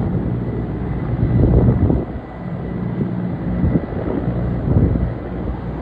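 Helicopter flying nearby, a steady low rumble of rotor and engine with the level swelling and easing.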